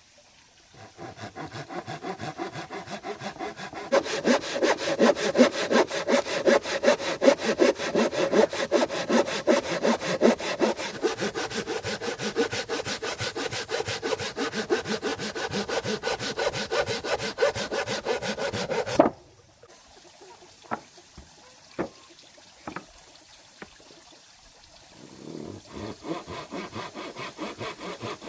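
Hand saw cutting wood in steady back-and-forth strokes, growing louder about four seconds in and stopping suddenly about two-thirds of the way through. A few sharp knocks follow, then the sawing starts again near the end.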